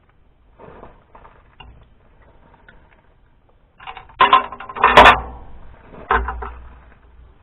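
Metal hand tools clanking and rattling: faint rattles at first, then several loud ringing clanks from about halfway on, the loudest a sharp metallic hit about five seconds in.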